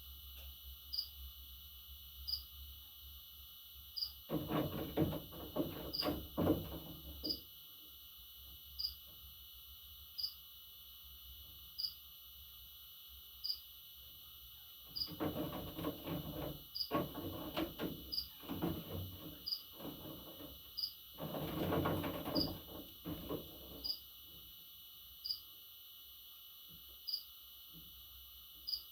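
Steady cricket chirring with a short high chirp repeating about every second and a half, broken three times by louder bursts of scratchy noise.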